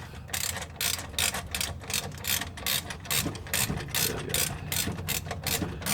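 Ratchet spanner clicking in quick, uneven strokes, about three or four a second, as it tightens an exhaust flange bolt that was still too loose.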